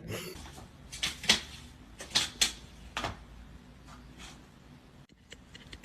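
Several short, sharp knocks and clatters, about five in two seconds, then quieter.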